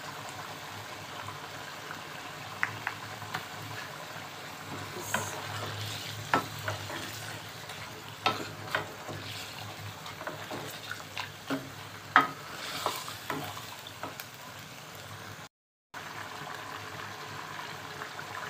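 Chicken and tomato masala sizzling as it fries in a metal pot during the bhunai stage, stirred with a wooden spoon that knocks and scrapes against the pot now and then.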